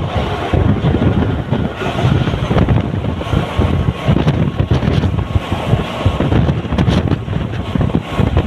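Mumbai suburban local train running at speed: a steady, loud rumble of the moving coaches, with wind buffeting the microphone.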